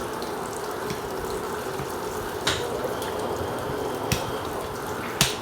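Two washing machines running, with water sloshing and filling as a steady wash under a faint hum. Three sharp clicks come through, about halfway, near four seconds and just before the end (the loudest): a tripod being extended to its full height.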